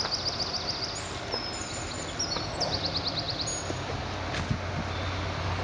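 A songbird singing quick runs of repeated high notes, once near the start and again about halfway, over steady outdoor background noise with a faint low hum in the second half.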